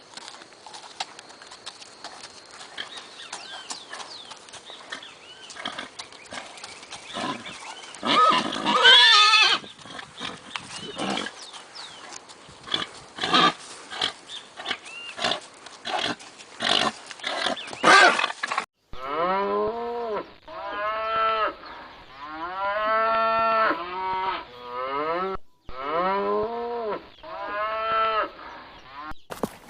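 Farm animals calling, with many clicks and knocks and one loud call about eight seconds in. From about nineteen seconds there is a run of repeated short calls, each rising and falling in pitch.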